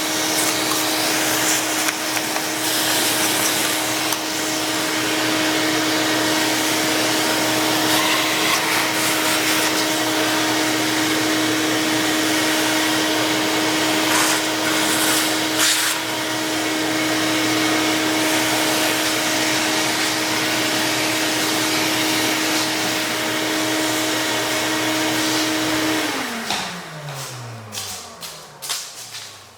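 Vacuum cleaner running steadily, then switched off near the end, its motor whine falling in pitch as it spins down, followed by a few light knocks.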